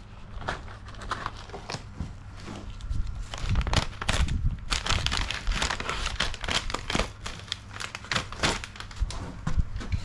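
Tape being pulled from the roll, torn and pressed down, with crinkling and crackling of the tape in irregular bursts, busier from about halfway through.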